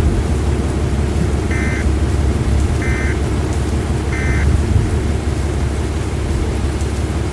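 Steady heavy rumble of rain and wind noise, with three short electronic beeps about a second and a quarter apart in the first half.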